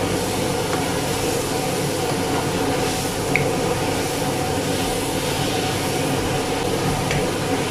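Cabbage stir-frying in a non-stick wok over a gas flame: a steady sizzling hiss as a wooden spatula tosses it, over a steady low hum.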